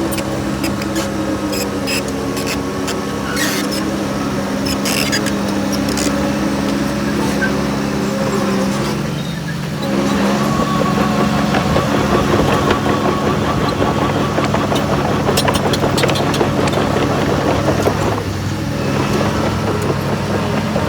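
Diesel engine of a heavy earthmoving machine running steadily, getting louder about ten seconds in, with scattered sharp clanks.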